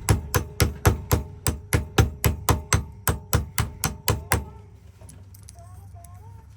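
Rapid, even hammer taps, about four a second, about seventeen in all, stopping about four and a half seconds in.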